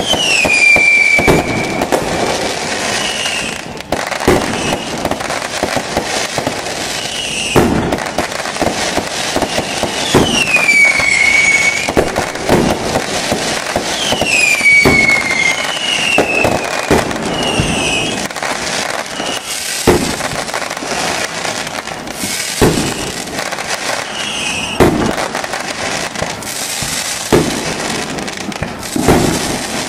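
Fireworks display: a dense run of bangs and crackling, with several whistles that fall in pitch, the clearest at the start and about ten and fourteen seconds in.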